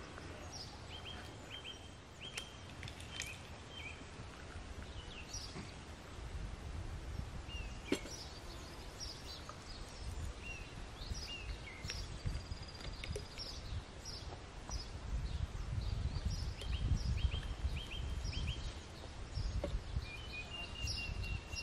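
Wild birds calling in the woods: many short chirps and brief trilled phrases scattered throughout, over a low rumbling noise that grows stronger in the second half.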